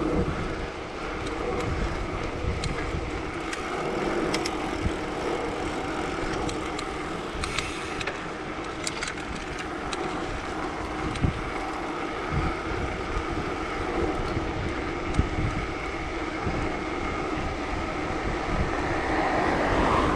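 Wind buffeting the microphone of a cyclist riding into a strong headwind, irregular low gusts over a steady road hum from riding.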